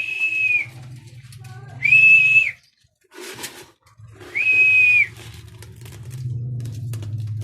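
Three short whistle blasts, each a single steady high note lasting about half a second, at the start, about two seconds in and about four and a half seconds in.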